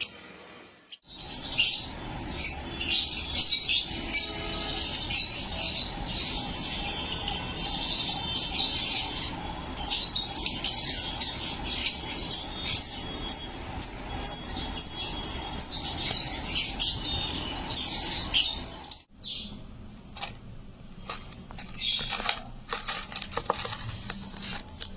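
Lovebirds chattering together in a dense stream of rapid, shrill chirps. About nineteen seconds in it stops abruptly, giving way to a quieter stretch with scattered sharp clicks.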